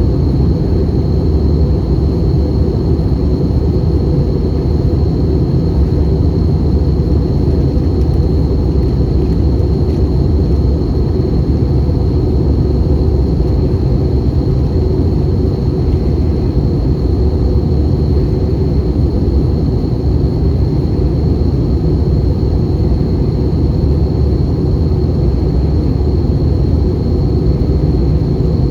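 Airbus A320 cabin noise heard from a passenger seat: a steady engine and airflow drone with a thin, steady high whine above it.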